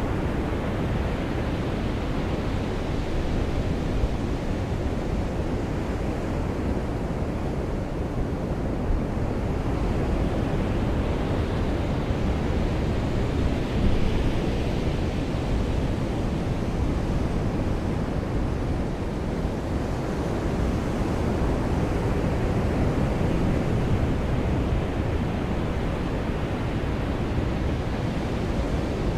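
Ocean surf washing on a beach: a steady low rush that swells and eases slowly, brightest and loudest about halfway through.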